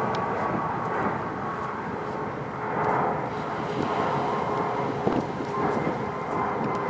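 Steady engine drone holding an even pitch, over a wash of wind and surf noise.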